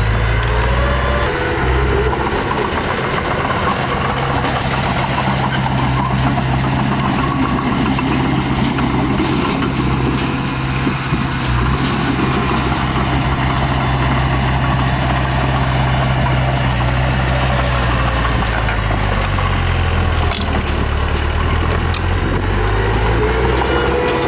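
Diesel engine of a small bulldozer running steadily at work, its engine note shifting near the start and again about three quarters of the way through.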